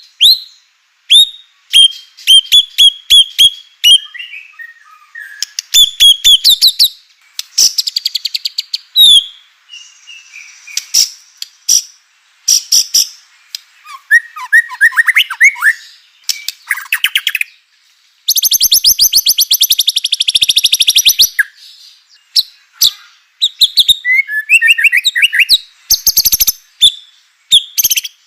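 White-rumped shama (murai batu) singing vigorously: a varied run of sharp whistled notes, quick trills and chattering phrases, with a harsh rattle of very rapid notes lasting about three seconds past the middle.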